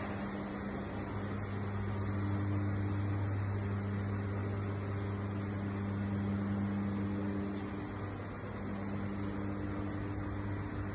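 Steady low hum of running mechanical plant equipment, such as pumps in a plant room, with fainter higher tones held above it.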